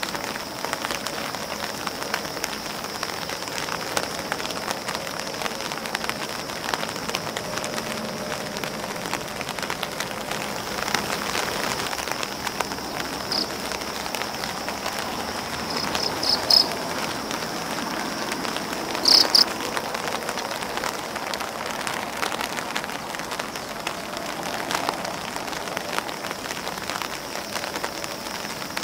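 Rain falling on grass leaves and an umbrella: a steady patter with individual drops tapping. A few short high chirps come after the middle, the loudest a double one about two-thirds of the way through.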